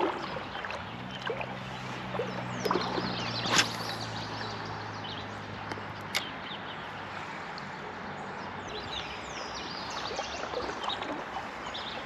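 Creek water running and gurgling, with a few sharp knocks and short bird chirps.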